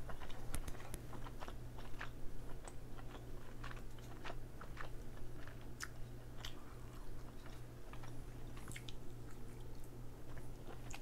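A person chewing king crab meat close to the microphone, with many small scattered mouth clicks and crackles.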